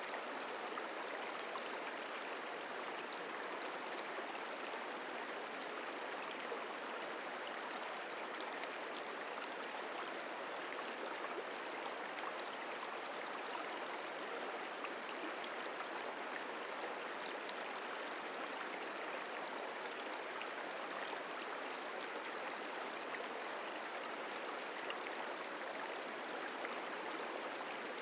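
The Merced River running, a steady even rush of flowing water.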